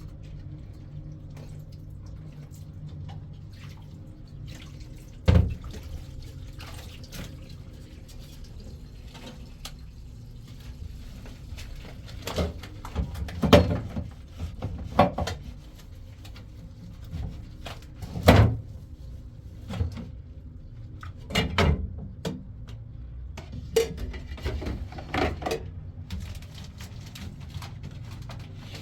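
Water running from a tap into a sink, with occasional sharp knocks and clatters, the loudest about five seconds in and again near the middle.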